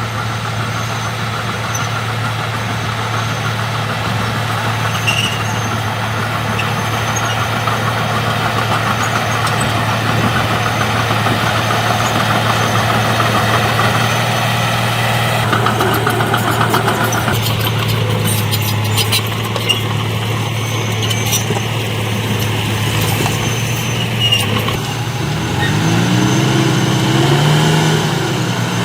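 Heavy diesel engine of construction machinery running steadily at low revs, with scattered sharp clicks in the middle. Over the last few seconds the engine revs up and its pitch wavers up and down.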